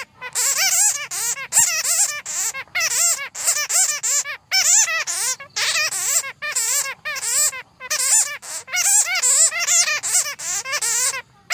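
Bats squeaking and chattering: rapid runs of high, warbling calls that rise and fall in pitch, broken by short pauses.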